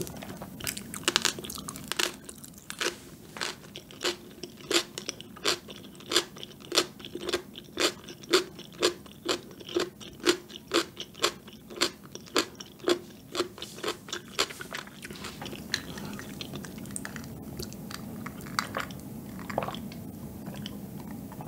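Close-miked crunching of pickled yellow radish (danmuji) being chewed, with crisp crunches about twice a second. The crunches die away about 15 seconds in.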